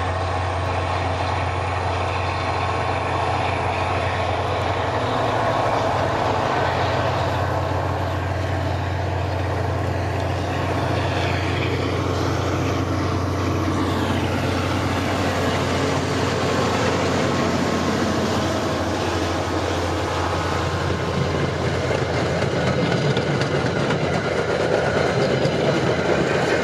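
Train rolling by: a steady low diesel locomotive drone under the noise of wheels on rail, getting a little louder near the end.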